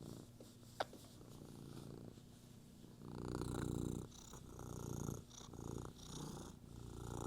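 Cat purring, faint at first and louder from about three seconds in, swelling and easing with each breath about once a second. A single small click comes near the start.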